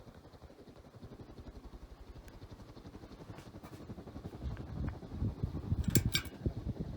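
SMC Ornate A-52 ceiling fan running, a low, evenly pulsing whoosh and hum. The low rumble grows louder over the last few seconds, with two sharp clicks close together about six seconds in.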